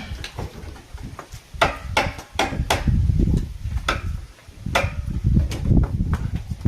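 Irregular hammer blows, about five or six sharp knocks spaced unevenly, over a low rumbling noise.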